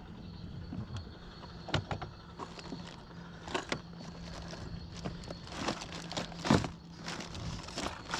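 Gear being rummaged through in a kayak while searching for fishing pliers: scattered clicks, knocks and rattles, the loudest knock about six and a half seconds in, over a faint steady hum.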